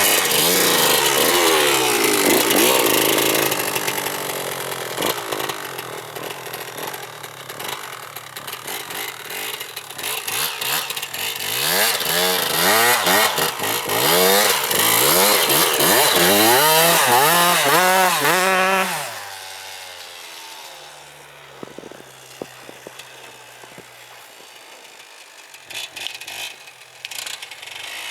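Motocross bike engine revving hard, its pitch climbing and falling again and again as the throttle is worked. Loud at first, it eases off, builds back into a run of quick rises and falls past the middle, then drops to a quieter low steady tone.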